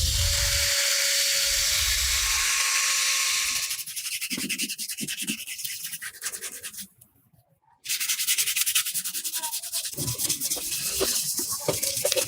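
Sanding: a steady hiss for the first few seconds, then rapid, even back-and-forth abrasive strokes. About seven seconds in, the sound drops to near silence for about a second, then the strokes resume.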